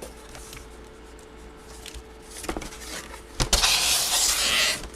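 Handling noise: a few light clicks, then a loud rustling scrape lasting about a second near the end, over a faint steady hum.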